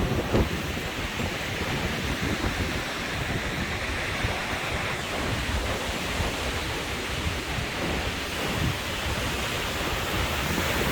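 Hurricane wind, a steady rushing noise with wind buffeting the microphone.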